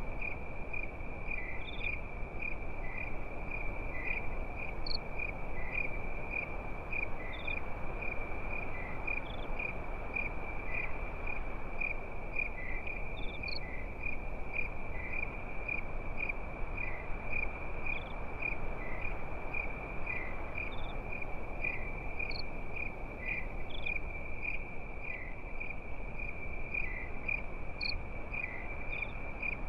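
Crickets calling at night: one continuous high, steady trill, with another cricket chirping lower about every three-quarters of a second and a few higher chirps scattered through, over a steady low hiss.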